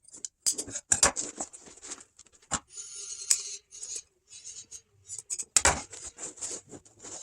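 Sewn boat seat cover being handled and turned over to check the seams: irregular rustling and crinkling with sharp clicks and taps.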